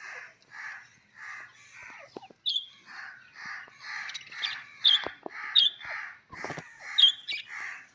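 Birds calling: a run of short, harsh calls at about three a second. From about two and a half seconds in, sharp, higher chirps break in among them.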